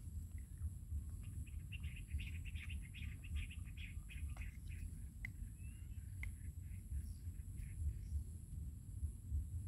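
Small bird twittering in a quick run of chirps for a few seconds, with a few single chirps after, over a low steady rumble.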